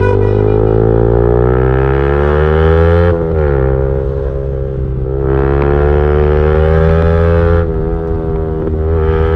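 Motorcycle engine through a loud aftermarket exhaust, accelerating under load. The pitch climbs steadily, drops at a gear change about three seconds in, climbs again, and falls off near the end.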